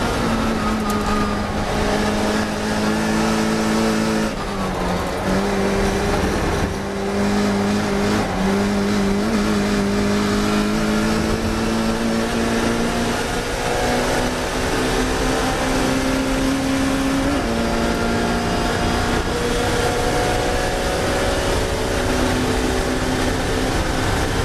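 Classic Mini racing car's engine at full race speed, its note climbing slowly as it pulls through the gears. The note drops briefly at a gear change about four seconds in and again about seventeen seconds in.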